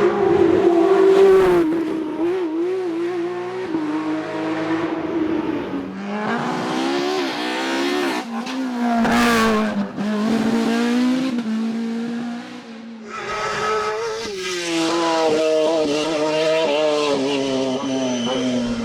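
Racing car engines at full throttle on a hillclimb, the note climbing and stepping back at each gear change, heard as about three separate passes.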